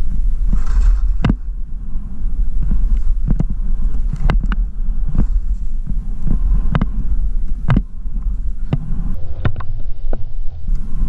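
Wind buffeting the microphone of a camera carried by a skier on the descent, a loud, steady low rumble. Sharp clicks and knocks come through it every half second to a second.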